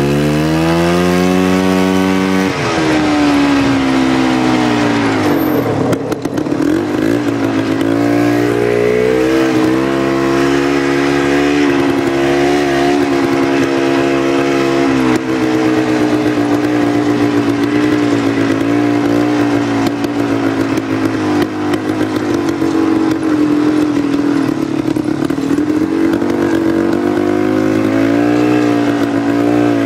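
Two-stroke engine of a 1989 Polaris Trail Boss 250 ATV running through a homemade welded exhaust pipe and aftermarket muffler. It revs up sharply at the start, drops back, then runs at a steady, wavering speed, picking up again near the end.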